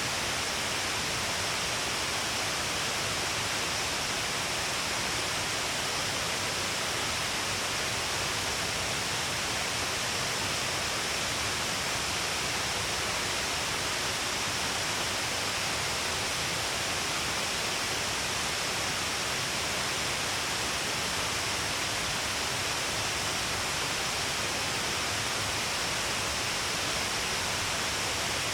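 Shiraito Falls, many streams of water pouring down along a long cliff face, giving a steady, unbroken rush of falling water and spray.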